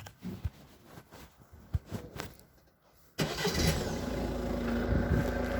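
Car engine coming on suddenly about three seconds in and then running steadily at idle, after a few faint clicks and a moment of silence.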